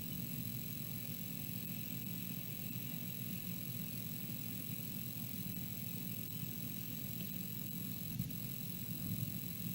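Steady low hum with faint, constant high-pitched tones, the background noise of an outdoor nest-camera microphone.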